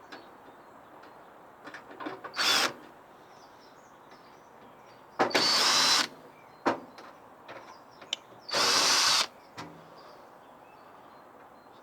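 Power drill driving out a microwave's casing screws in three short bursts, with a faint whine rising as the motor spins up. Small clicks and knocks of handling come between the bursts.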